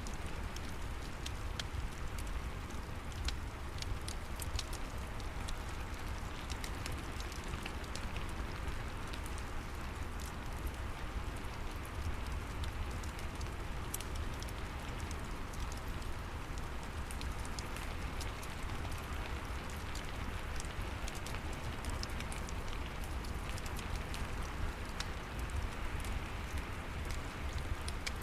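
Steady rain falling, with scattered sharp crackles and pops from a wood fire, over a low steady rumble.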